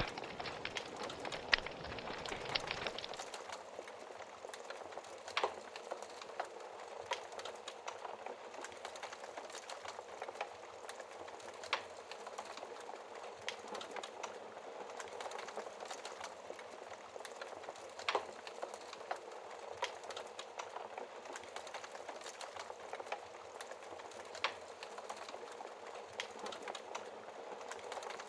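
Wood fire crackling in a fireplace: a steady soft hiss with frequent small pops and a few louder, sharper snaps every several seconds.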